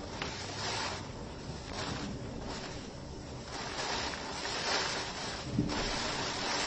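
Rushing wind noise over the microphone, swelling and fading in gusts about once a second.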